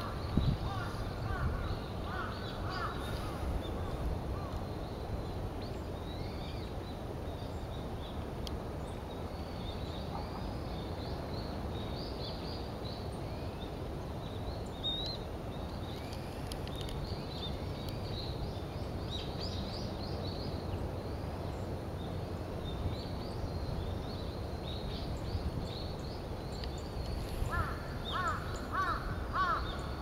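Outdoor bird calls over a steady low background rumble. High, thin chirps and twitters from small birds are scattered throughout. A larger bird gives a run of harsh, quickly repeated calls in the first two seconds and again near the end.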